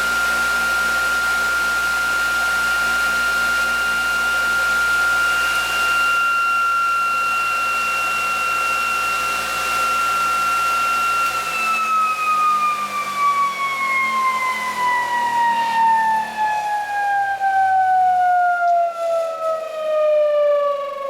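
Electric-motor-driven ReGenX generator test rig spinning with a steady high-pitched whine over a low hum. About eleven seconds in, the hum stops and the whine falls steadily in pitch as the rotor slows.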